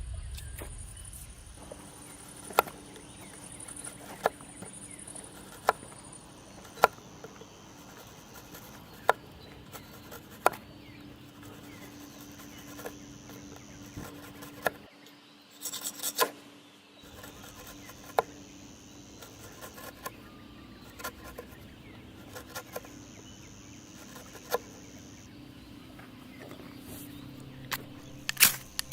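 Outdoor ambience with a high insect buzz that comes and goes in stretches of a few seconds, under sharp knocks or clicks every second or two, with a quick cluster of them near the end.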